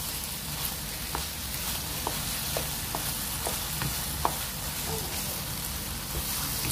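Minced chicken keema cooking in masala in a pan on the gas, sizzling steadily with scattered small pops.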